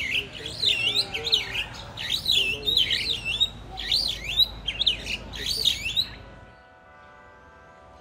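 A bird in an aviary calling loudly and repeatedly: a series of sweeping, rising-and-falling chirps, roughly one or two a second, that stops about six seconds in. After it only a faint steady hum of several even tones remains.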